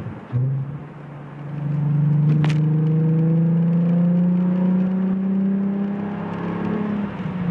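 Car engine heard from inside the moving car, dropping away briefly, then coming back and pulling steadily as its pitch slowly rises under acceleration. A single sharp click sounds about two and a half seconds in.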